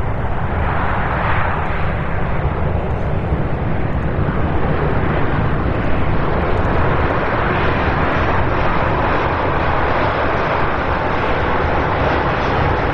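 Boeing 787 Dreamliner's jet engines: a loud, steady roar with no break.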